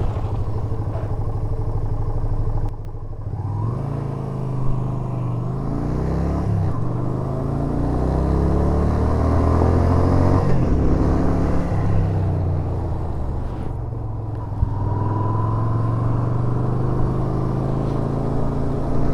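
Yamaha SRV250's air-cooled V-twin engine accelerating, its pitch rising and dropping back several times as it shifts up through the gears, then running steadily at cruising speed.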